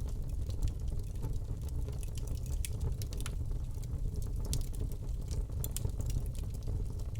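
Wood fire burning in a fireplace, with a steady low rumble of the flames and many irregular sharp crackles and pops.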